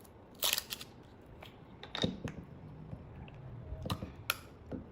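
Scattered light clicks and short rustles of food and eating utensils being handled, five or six in all, with quiet between them.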